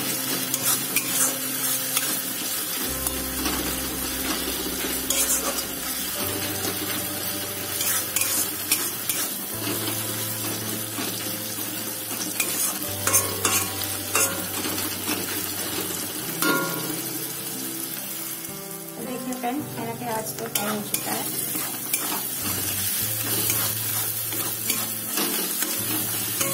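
Sliced onions with ginger and garlic paste sizzling in hot oil in an iron kadai, with a spatula scraping the pan as they are stirred. This is the masala being fried lightly before the chicken is added.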